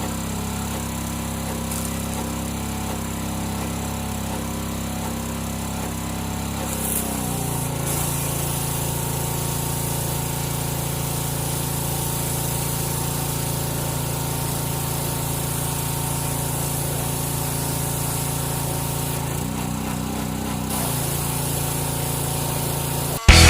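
Pressure washer running steadily while the tractor is rinsed. Its note steps up about seven seconds in and dips back for a moment near the end. It then cuts off abruptly into music.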